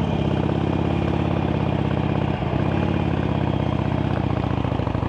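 Harley-Davidson Sportster Iron 883's V-twin engine running steadily as the bike rides on, with a brief break in the note about two and a half seconds in.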